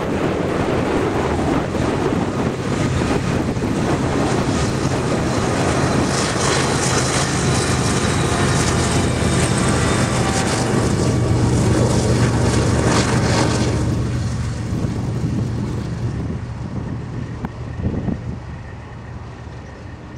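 Freight train passing close by: Union Pacific diesel-electric locomotives running with a steady low drone over wheel-and-rail noise, with wind buffeting the microphone. The sound falls away about two-thirds of the way through.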